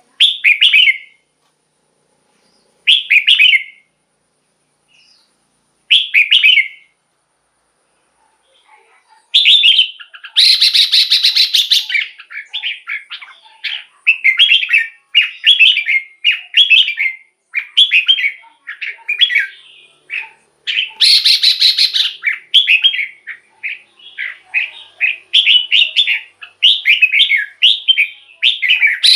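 Red-whiskered bulbul singing: three short whistled phrases about three seconds apart, then from about nine seconds a fast, near-continuous run of phrases, broken twice by a harsh, dense chattering burst.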